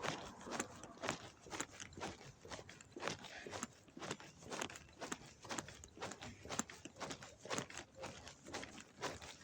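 Footsteps of someone walking at a steady pace, about two steps a second.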